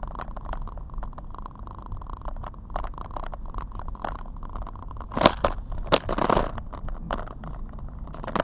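Car interior on the move in the rain: a steady low road rumble with many irregular small ticks and taps, and a louder clatter and rustle about five to six and a half seconds in.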